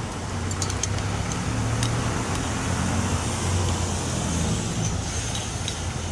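A vehicle engine running with a low hum, growing louder over the first few seconds and easing off again.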